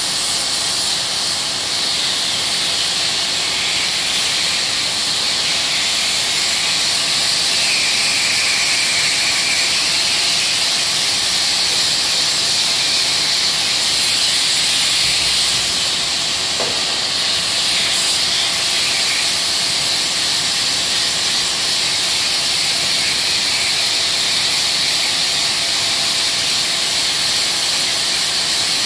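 Sander running steadily while dry sanding body filler, a constant hiss of sandpaper on the filler.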